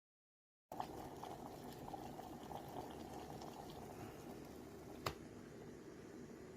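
Water heating in a foldable stainless steel electric travel kettle, a steady bubbling with small crackles as it comes to the boil, starting abruptly a moment in. A single sharp click about five seconds in.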